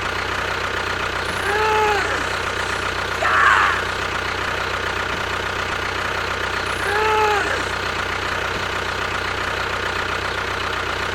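A steady engine-like hum runs throughout. About 1.7 s in and again about 7.2 s in comes the same short arching tone, rising then falling, and a brief noisy burst follows the first one.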